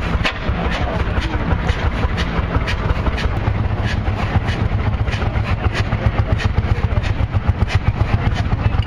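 A large engine running with a fast, even firing beat, and sharp clicks or pops a couple of times a second.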